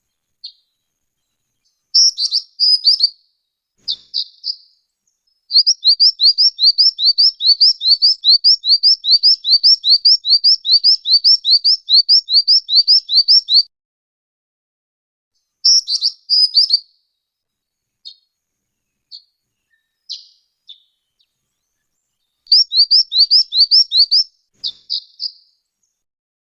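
A jinjing batu (black-winged flycatcher-shrike) singing high, quick rising notes in phrases. One long run goes for about eight seconds at about four notes a second, with shorter phrases and single notes around it.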